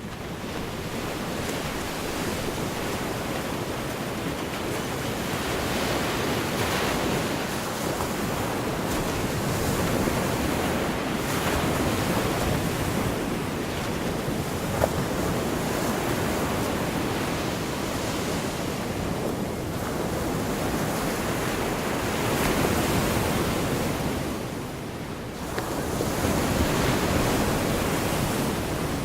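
Gulf of Mexico surf: waves breaking and washing up the beach in a continuous rush that swells and eases every few seconds, with a lull about twenty-five seconds in. Wind on the microphone adds to it.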